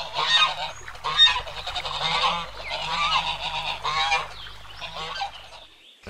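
Geese honking, a busy run of repeated, overlapping calls that stops shortly before the end.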